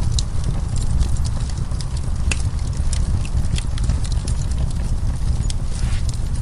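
Wood fire burning: irregular sharp pops and crackles of burning logs over a steady low rumble of flame.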